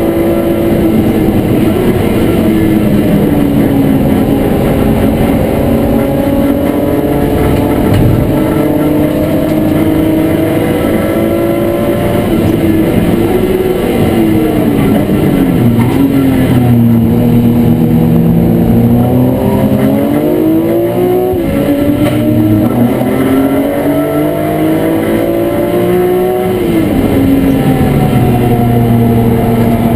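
BMW E36 M3 race car's straight-six engine under racing load, heard from inside the cabin. The note dips and wavers about halfway through, then climbs through the revs twice, dropping sharply at each upshift.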